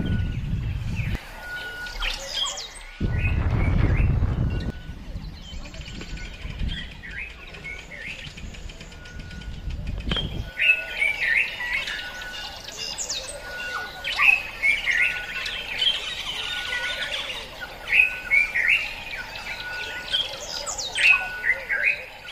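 Birds chirping and calling, many short overlapping calls, with a short single note repeating about once a second. A low rumble runs under the first half and stops abruptly about ten seconds in, after which the birdsong is the clearest sound.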